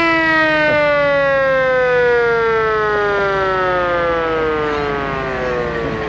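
Vintage fire truck's mechanical siren winding down after being sounded: one long wail that falls slowly and steadily in pitch as the rotor coasts.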